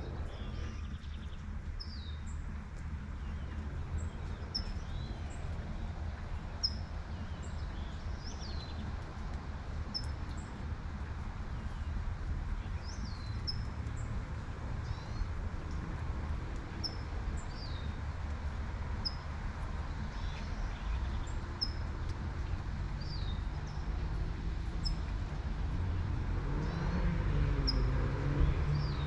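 Birds chirping over and over, short high chirps about once a second, above a steady low traffic rumble and the faint hiss of light rain. A car passes near the end.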